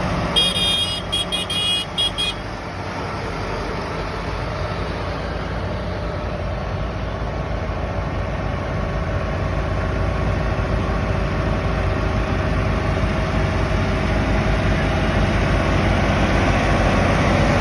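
Tractor engines running as they go past, the rumble growing steadily louder. Near the start a high-pitched horn sounds a quick run of short toots.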